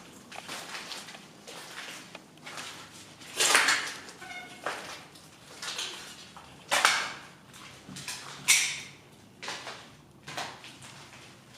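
Slow, uneven footsteps scuffing and crunching across the floor of an abandoned building, a few louder than the rest. There is a short squeak about four and a half seconds in.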